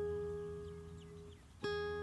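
Soft acoustic guitar: a chord rings and slowly fades, then a new chord is plucked about a second and a half in.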